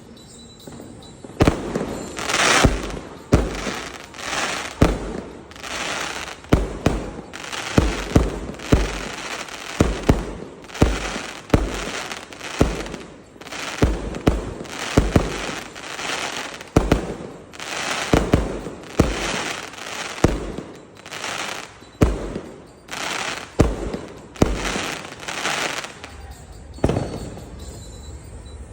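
Aerial fireworks display: a rapid string of shell bursts, each a sharp bang trailing off into crackle, about one or two a second without a break.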